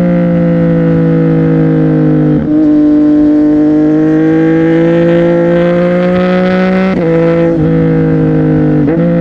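CFMOTO 675NK's inline-three engine running under way through a Burnout titanium exhaust. It holds a steady, slowly shifting note, broken by short gaps at about two and a half, seven and nine seconds, where the pitch drops as gears change.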